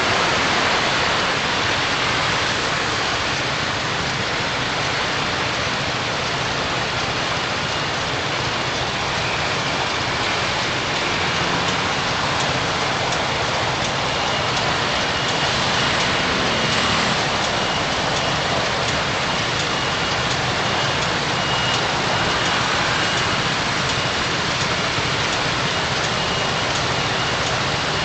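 Steady rain and tyre noise heard from inside a moving car through a dashcam microphone, an even hiss with no breaks.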